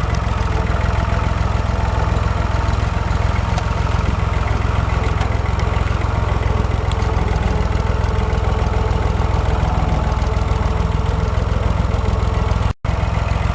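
Motor vehicle engine running steadily with a low, fast even pulse; the sound drops out for an instant near the end.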